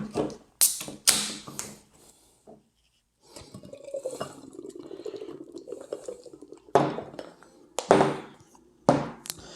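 Two sharp clicks, then a can of hazy double IPA being poured into a glass, a steady liquid pour for about three seconds. Then several knocks as the can and glass are set down.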